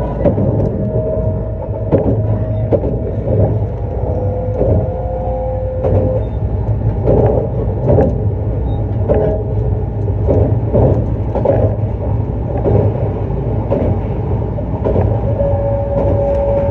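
JR East E259 series Narita Express electric train running: a steady low rumble with regular knocks from the wheels over rail joints. Over it runs the motors' whine, held on a few steady tones that change pitch from time to time.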